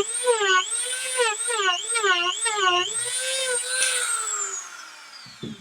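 Dremel rotary tool whining at high speed as it grinds into the chip's package around the internal battery cell, its pitch dipping about three times a second as it bites under load. About four seconds in it is let off and winds down with a falling whine, and a short low knock comes near the end.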